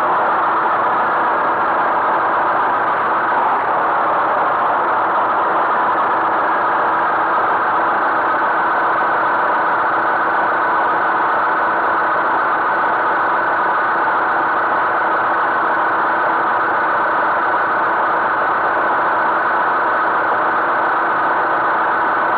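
Tractor engine running steadily, with a high whine that falls slightly in pitch over the first several seconds and then holds.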